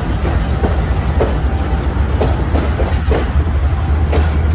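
Train running along the track: a steady low rumble with irregular clicks of wheels crossing rail joints, about two a second.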